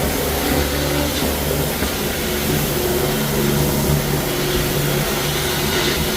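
Tile and grout cleaning machine running steadily, a motor hum under a continuous hiss of spray and suction as the floor is gone over again.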